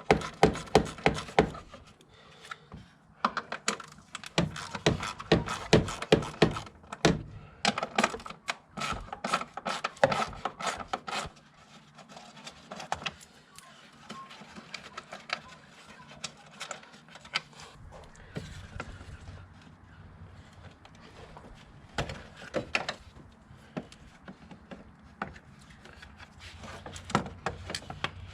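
Clicks and knocks of hands and tools working in a car's engine bay as the plastic air box is being removed. They come thick and fast for the first dozen seconds, then more sparsely.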